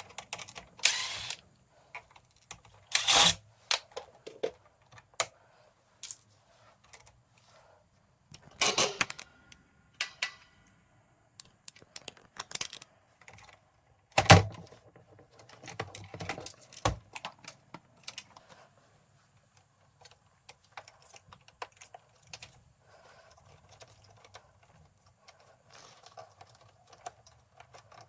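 Irregular clicks, clinks and knocks of hand tools and small parts being handled while working on a stand air conditioner, the sharpest knock about halfway through, with fainter scattered clatter toward the end.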